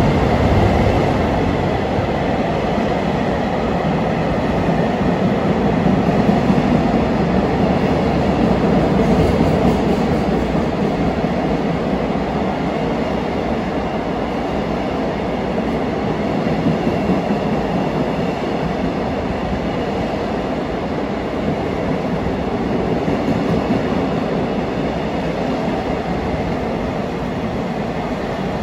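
JR Freight DD200 diesel-electric locomotive passing through at speed, followed by a long train of container wagons rolling by on the rails. The noise is loudest in the first third and eases slightly as the wagons continue past.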